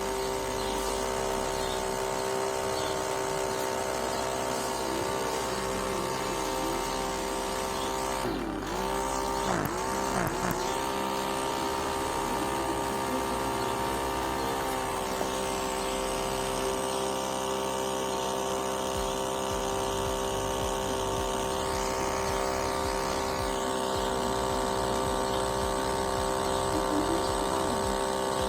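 Small electric motor of a homemade mini air conditioner running with a steady hum. Its pitch dips briefly and recovers three times about a third of the way through.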